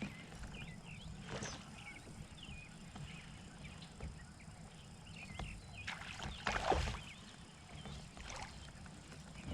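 Faint water and handling noises from a kayak on a river, with short high chirps scattered throughout and a brief louder rush of noise about two-thirds of the way in.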